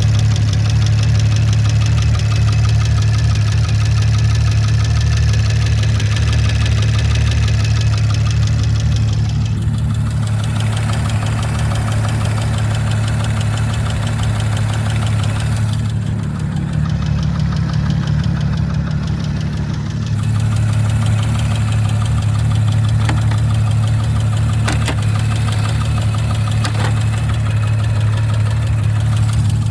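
A 2019 Audi RS5 B9's twin-turbo V6 engine idling steadily, with a fast, regular ticking over the engine hum. The cause of the tick is unknown to the owner. A few sharper clicks come through about three-quarters of the way in.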